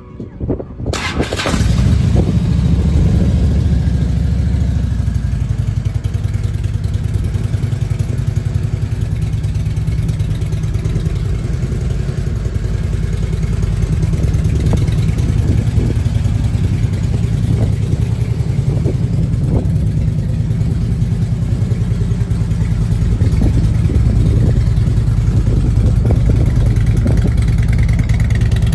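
Harley-Davidson Road King's V-twin engine coming in about a second in, then running steadily with a deep, low exhaust note.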